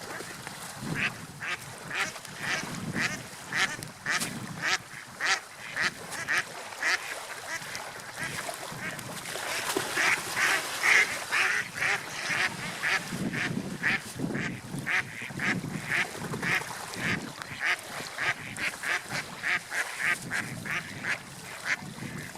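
Gulls calling, a rapid series of short squawks about two or three a second, loudest around the middle, over a low rush of wind and surf that swells and fades.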